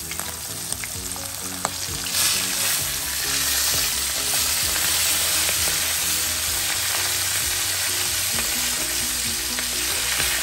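Whole flour-dredged fish deep-frying in hot oil in a metal pan: a steady sizzle that grows louder about two seconds in, as more fish go into the oil.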